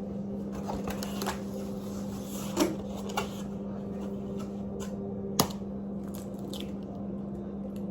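Brownie mix being added to a bowl and worked in: soft rustling with a few sharp clicks and knocks of utensil against bowl, the loudest a little past halfway, over a steady low hum.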